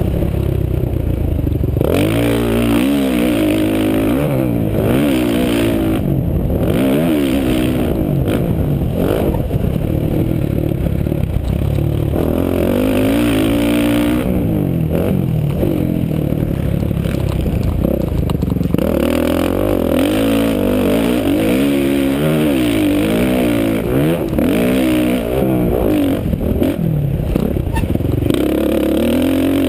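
Suzuki RM-Z450 motocross bike's single-cylinder four-stroke engine, heard close up from a GoPro on the bike. The engine revs up and drops back again and again as it is ridden around a dirt track, with repeated rising pitch sweeps through the gears.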